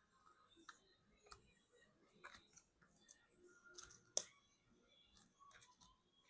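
Faint, scattered clicks and taps of small plastic and metal laptop parts being handled during disassembly, with one sharper click about four seconds in.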